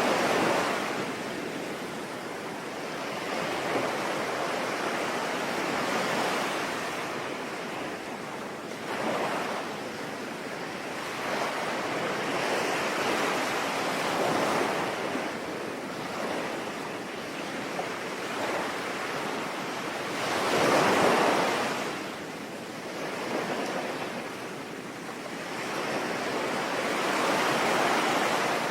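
Sea waves breaking and washing in slow surges every few seconds, over a steady hiss of rain; the biggest surge comes about two-thirds of the way through.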